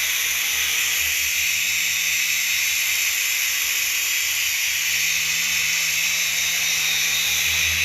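Small RC toy helicopter in flight: its electric motor and rotor blades give a steady high-pitched whir.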